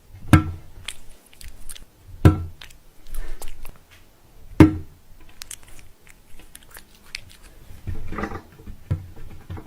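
Crunching and chewing: three loud sharp crunches about two seconds apart, with softer clicks and smacking between them.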